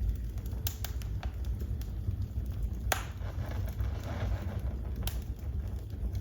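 Wood fire crackling in a fireplace: a steady low rumble with scattered sharp pops, the loudest about three seconds in, followed by a brief hiss.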